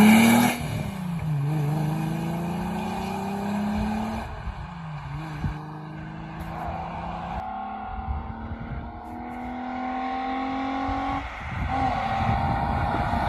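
Volkswagen VR6 six-cylinder engine: a loud rev cuts off about half a second in. The engine note then climbs slowly and steadily, drops back around five seconds in and again near eleven seconds, and climbs again each time.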